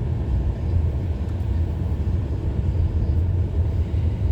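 Steady low rumble of a vehicle's engine and tyres heard from inside the cabin while driving slowly.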